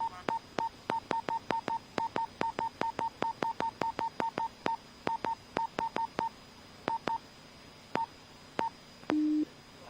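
A rapid, uneven series of short electronic beeps at one pitch, each with a click, thinning out after about six seconds, then one longer, lower beep near the end.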